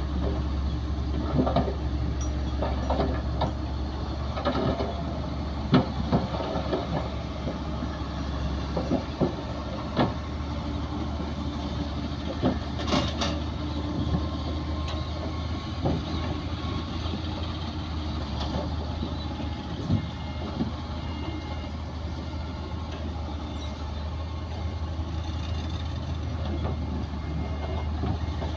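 Bulldozer's diesel engine running steadily under load, with irregular metallic clanks and knocks from the machine working soil.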